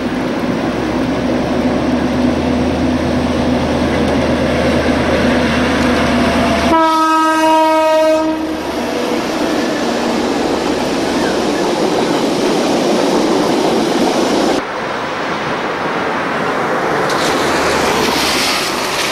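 Diesel-electric locomotive hauling a passenger train past, its engine running steadily. Its horn sounds once for about a second and a half, about seven seconds in. The carriages then roll by with a steady rumble.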